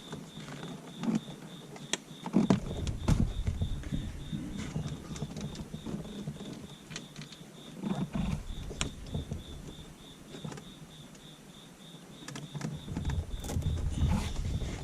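Hands handling wiring and a plastic zip tie: rustling, bumps and scattered small clicks as the tie is looped around a sunroof drain hose and tightened. A faint high-pitched beep pulses steadily about four times a second underneath.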